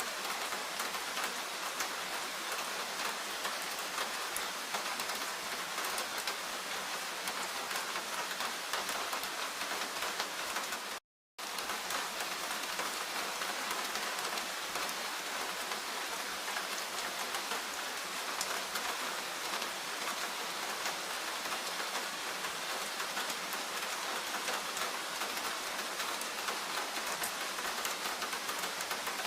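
Steady rain falling: a dense, even hiss of drops with many separate drop ticks through it. The sound cuts out completely for a split second about eleven seconds in.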